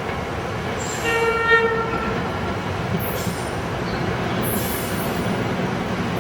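Train rolling past with steady rumbling. About a second in, a horn sounds for about a second, and from about three seconds in there are high-pitched wheel squeals.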